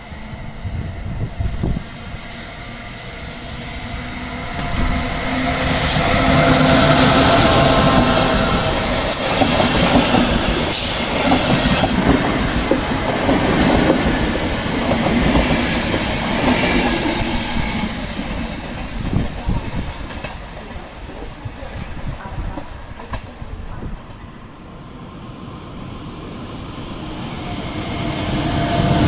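Locomotive-hauled Intercity passenger coaches rolling past, with wheels clattering over the rail joints and some wheel squeal. The sound builds to its loudest after a few seconds and fades in the second half. Near the end another train, pulled by an electric locomotive, approaches and the sound rises again.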